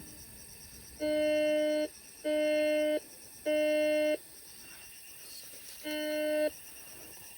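Four electronic beeps at one steady pitch, each just under a second long, the first three about a second apart and the fourth after a longer gap, swelling louder before it cuts off.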